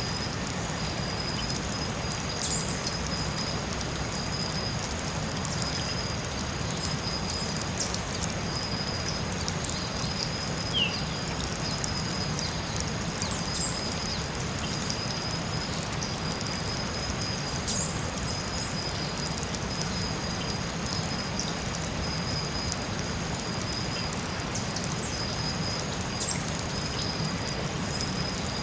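Forest soundscape: a steady, even hiss with two steady high-pitched tones running above it and scattered short high chirps and ticks.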